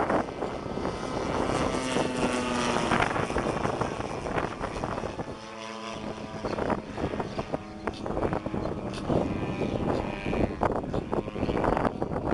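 Radio-controlled aerobatic model airplane's propeller engine buzzing in flight, its pitch changing as it manoeuvres.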